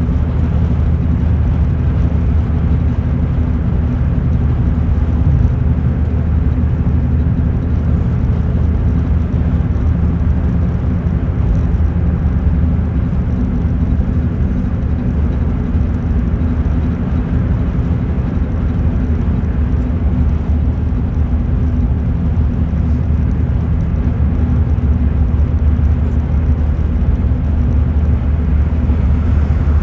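Steady low rumble of a car in motion heard from inside the cabin: engine and road noise holding an even level throughout.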